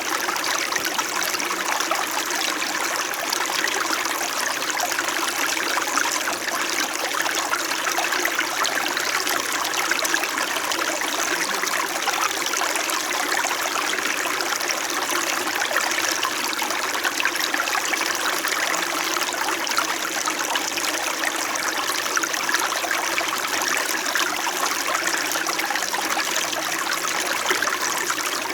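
Small mountain stream flowing steadily over stones, a constant babbling and trickling of water.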